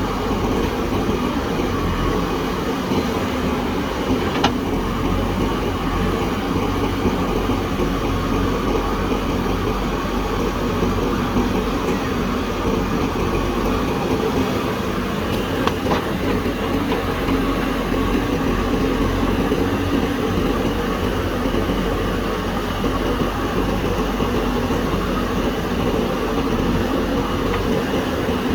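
Diesel engine of a JCB backhoe loader running steadily while it works, with a couple of faint knocks.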